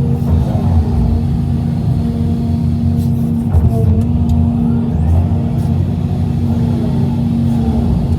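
Hitachi EX350LC excavator's diesel engine running steadily at working revs, a constant hum with the rumble swelling and easing slightly as it works.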